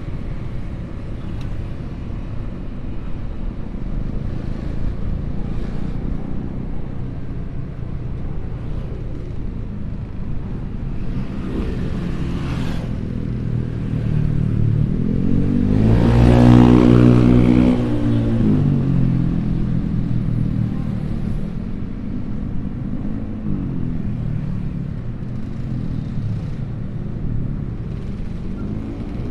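Road traffic passing steadily, with one loud engine passing close about sixteen seconds in, its pitch sweeping up and then down as it goes by, and a smaller pass about twelve seconds in.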